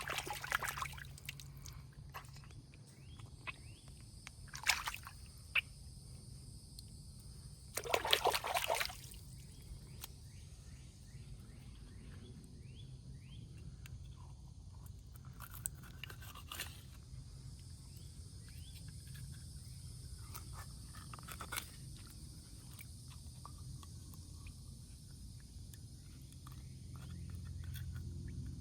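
Water sloshing, with a few brief louder splashes, over a low steady rumble, with faint short chirps throughout.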